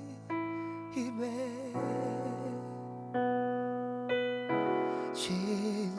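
Soft worship music on piano: slow sustained chords, a new chord struck about every second.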